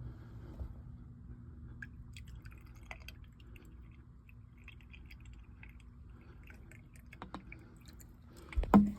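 Water dripping and trickling through a condensate drain line and SS1 water safety switch after a pour test of the newly glued joints, over a faint steady hum. A few sharp clicks come shortly before a louder knock near the end.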